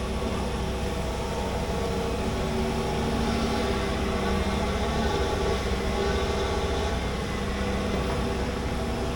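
Large excavator's diesel engine running steadily.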